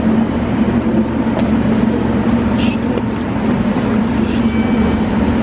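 Train running, a steady low rumble with a constant hum.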